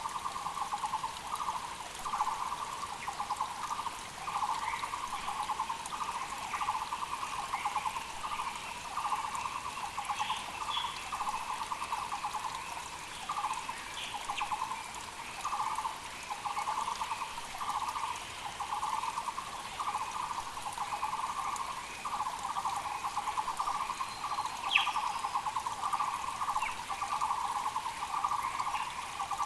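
Muller's barbets (Taiwan barbets) calling without a break, runs of rapid repeated low notes overlapping one another, with smaller birds chirping higher up and a mountain creek's hiss beneath.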